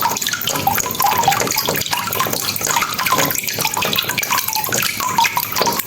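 Rain falling steadily: a dense, even patter of drops and small splashes.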